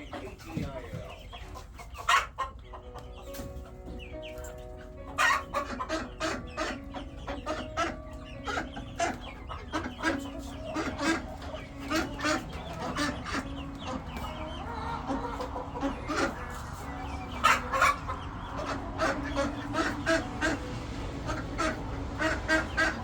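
Domestic hens clucking, a run of many short, sharp clucks with a few drawn-out notes near the start.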